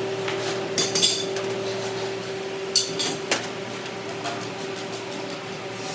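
A few sharp metallic clinks and knocks, two near one second in and three around three seconds in, over a steady machine hum.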